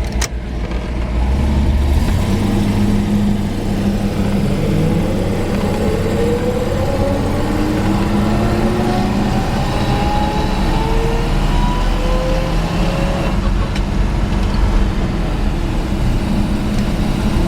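1940 Buick 81C's straight-eight engine pulling the car away through the gears, with a whine that climbs steadily in pitch as the car gathers speed and drops off about thirteen seconds in, as at a gear change. Heard from inside the open car's cabin.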